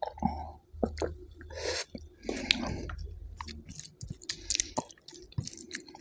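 Close-miked chewing of a mouthful of dal and rice, with many short wet smacks and clicks of the mouth and a few brief squelchy, noisy passages.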